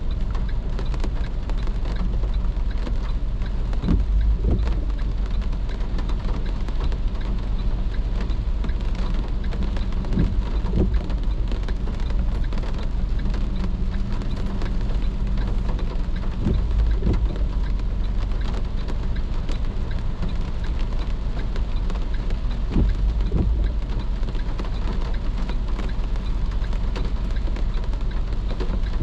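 Rain on a moving car, with a steady low rumble of road and engine noise under it. A short swell comes about every six seconds.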